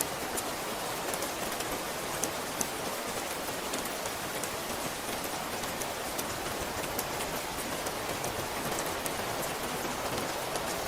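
Steady rainfall with many scattered drop ticks.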